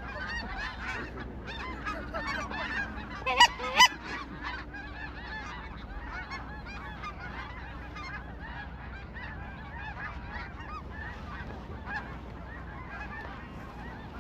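A large flock of geese calling, many overlapping honks at once. About three and a half seconds in, two loud sharp sounds stand out about half a second apart.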